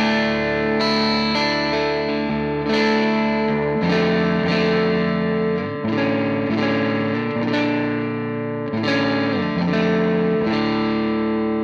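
Electric guitar played through an EarthQuaker Devices White Light overdrive pedal at low gain with its comp switch in the plus position, into a Hughes & Kettner Tubemeister tube amp: mildly overdriven chords held and ringing, changing every couple of seconds.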